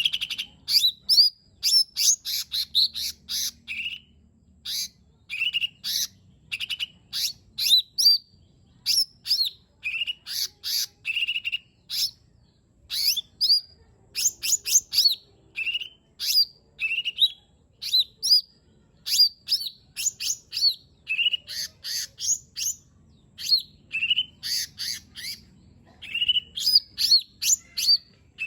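Cucak ijo mini (small green leafbird) singing: fast runs of sharp chirps and short rising whistles, phrase after phrase with brief pauses between.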